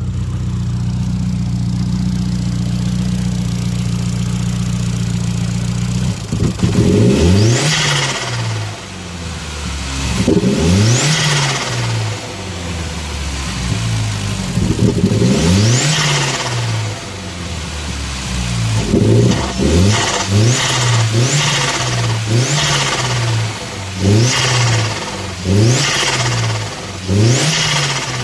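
Turbocharged Audi A3 engine idling steadily, then revved repeatedly, with sparser revs at first and quick blips about once a second near the end. Each time the throttle closes there is a hissing turbo flutter, made by capping the diverter valve so the boost air is pushed back through the turbo.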